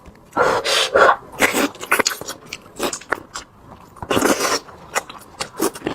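Close-miked chewing and lip-smacking on braised pork, in irregular wet bursts. The loudest bursts come about half a second to a second in and again around four seconds in.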